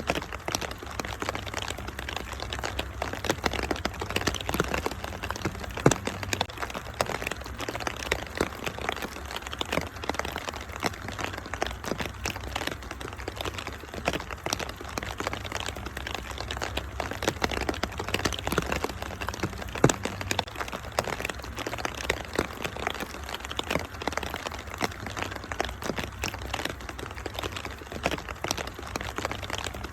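Wood fire crackling in a fireplace: a dense run of small pops with a couple of sharper snaps, about six and twenty seconds in, over a steady hiss of rain.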